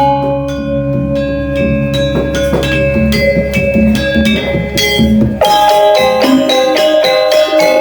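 Balinese gamelan playing: bronze metallophones strike quick, ringing notes over a deep, sustained low tone that fades out about five seconds in, after which the strokes become faster and denser.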